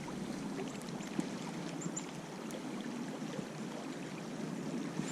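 Steady rushing of a small stream, with a few faint ticks over it.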